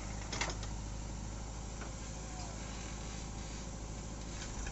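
Tractor engine running steadily at low revs, with one short knock about half a second in.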